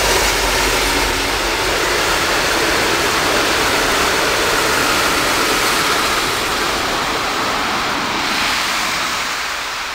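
V/Line express passenger train passing close at speed, a diesel locomotive hauling carriages: a loud, steady rush of engine and wheels on the rails that fades over the last couple of seconds as it moves away.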